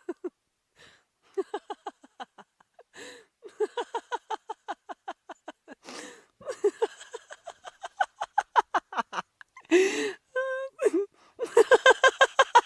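A person laughing hard in fast runs of 'ha' pulses, about six to eight a second, with gasping in-breaths between the runs and a short high squeal about ten seconds in.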